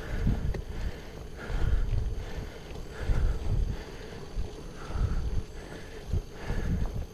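Wind noise on the microphone of a camera riding along on a bicycle. It swells and fades in regular pulses about every one and a half to two seconds.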